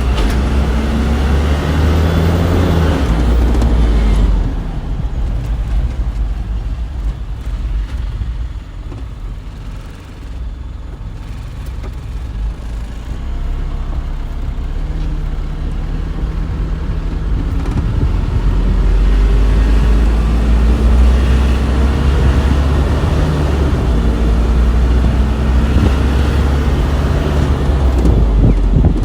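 Isuzu NPR diesel truck running, a heavy low rumble with the engine note gliding up and down. It eases off a few seconds in, is quietest about a third of the way through, then builds back up and stays loud over the second half.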